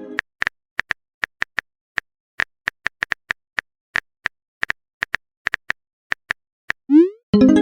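Phone-keyboard tap sound effects clicking at an irregular pace, about three a second, as a text message is typed out. Near the end comes a quick rising bloop and a short chime, a message-sent notification.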